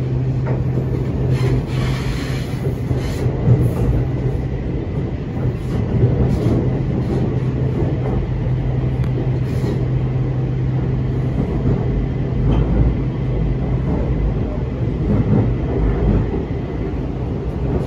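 BTS Skytrain electric train running, heard from inside the carriage: a steady low hum over the rumble of the wheels. About twelve seconds in, the hum drops out and a deeper rumble takes over.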